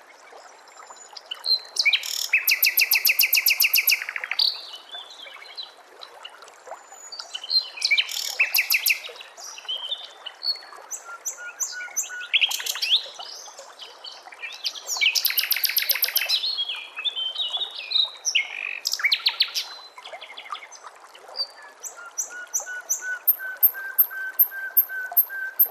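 Recorded songbird song: loud, rapid rattling trills and chirps come in separate phrases a few seconds apart over a faint steady hiss. Near the end a quick series of high ticks runs over a thin, steady low whistle.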